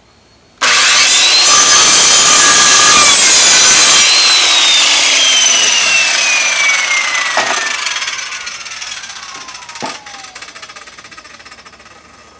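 Circular saw starting up about half a second in and cutting through a wood board for a few seconds. The trigger is then released and the blade spins down with a long falling whine, with a couple of short knocks as it slows.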